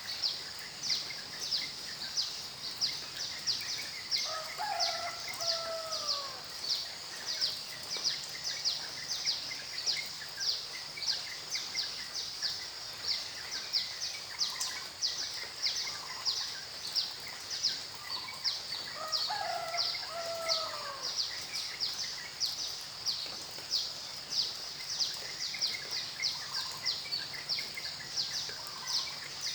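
Nature soundscape of steady rain-like hiss with a high chirp repeating about twice a second. A lower falling call sounds twice, once early and once past the middle.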